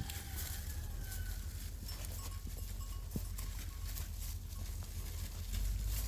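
Flock of sheep on the move, with scattered short clicks over a steady low rumble.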